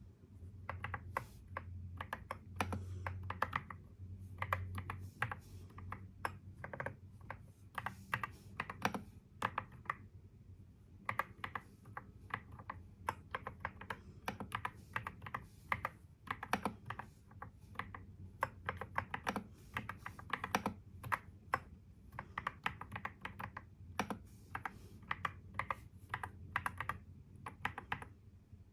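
Typing on a computer keyboard: quick runs of key clicks in uneven bursts with short pauses, over a faint low steady hum.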